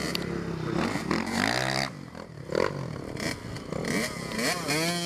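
Dirt bike engines revving, their pitch rising and falling again and again, with quick up-and-down sweeps near the end.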